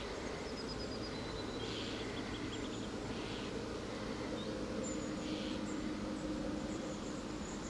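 Outdoor ambience: small birds chirping and trilling now and then over a steady low hum and background noise.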